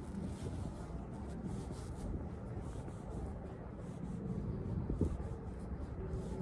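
Waterfront ambience: a steady low rumble with a faint engine hum, and a single sharp knock about five seconds in.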